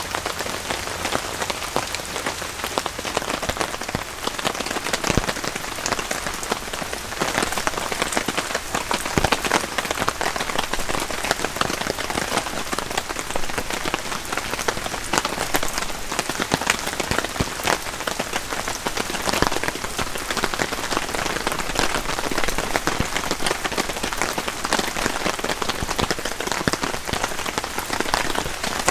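Steady rain falling, with many individual drops landing as sharp taps and a few louder ones standing out.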